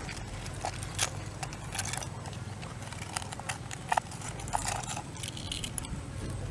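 Scattered light clicks and taps over a steady low hum, a few of them sharper, near one second and four seconds in.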